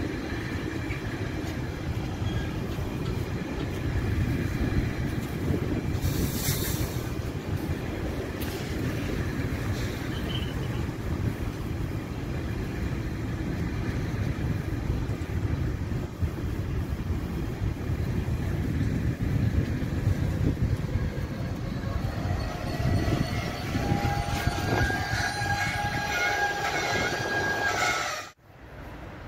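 Freight train of container flat wagons rolling past, a steady low rumble of wheels on rail. For the last several seconds the brakes squeal with several held tones as the train slows to stop at the station, then the sound cuts off suddenly just before the end.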